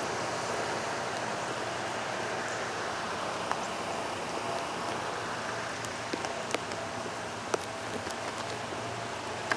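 Steady rain falling, an even hiss with a few sharper drop-like ticks scattered through the second half.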